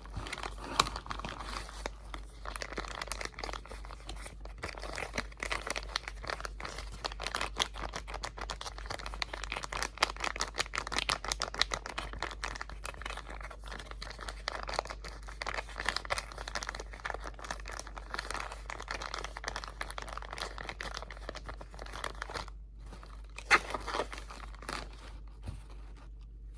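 Close-miked crinkling and crumpling of crinkly material, a dense run of crackles with a brief pause about 22 seconds in followed by one sharp crackle, over a faint low hum.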